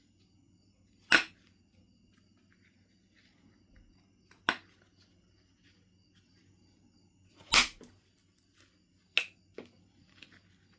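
Flintknapping percussion on Knife River flint: sharp knocks of a billet striking the stone, five in all, a few seconds apart, the last a lighter one just after the fourth. Faint small clicks and handling of the stone come in between.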